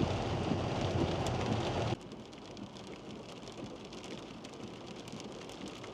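Heavy rain pouring down, a dense hiss dotted with individual drop ticks. About two seconds in it drops suddenly to a quieter, thinner rain.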